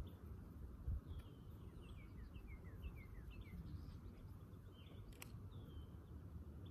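Wild birds singing: a run of quick, falling chirps between about one and three seconds in, with a few scattered calls later, over a low steady background rumble.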